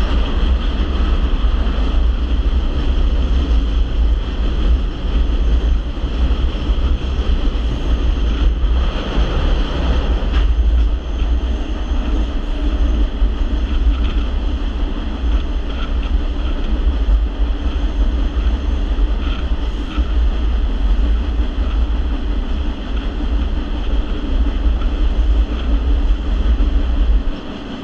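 Passenger train running along the rails, heard from an open-air car: a steady rumble of wheels on track with a heavy low roar, briefly louder about nine to ten seconds in.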